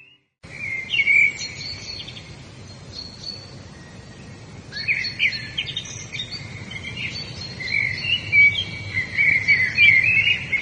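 Several birds chirping and singing in quick, short calls and trills, starting after a brief gap and growing busier past the middle, over a steady low rush of background noise.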